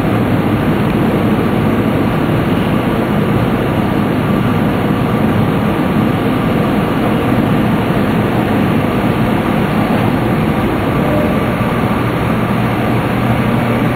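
Steady, loud rumble of a Tōkaidō Shinkansen train running through a tunnel, heard from inside the passenger car.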